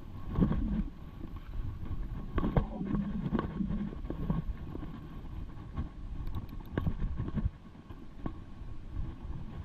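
Wind rumbling on the microphone of a mountain bike ride camera, with irregular knocks and rattles from the bike running over rough ground.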